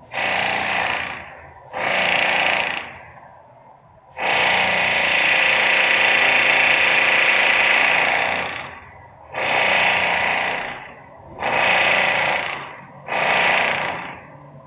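Loud industrial equipment noise from a plant, coming in bursts: two of about a second, one of about four seconds, then three more of about a second. Each starts suddenly and tails off.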